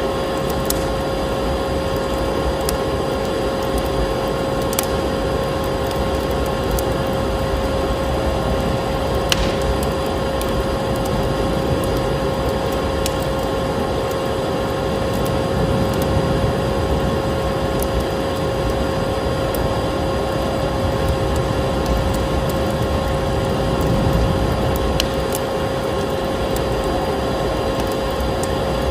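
Vacuum cleaner running steadily with a constant whine, layered with a wood fire crackling and giving occasional sharp pops.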